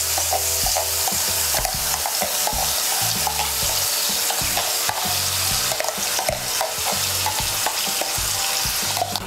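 Wet pointed-gourd paste frying in hot mustard oil in a pan, sizzling steadily throughout, with frequent light clicks of a steel spoon scraping the paste out of a bowl.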